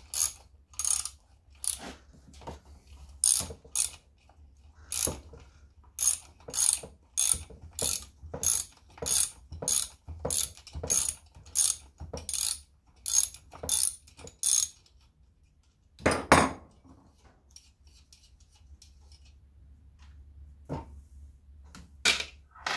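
Ratchet clicking in short, even strokes, about two clicks a second, as fasteners are undone on a chainsaw. About 16 seconds in there is a louder metallic clatter, then only faint handling sounds.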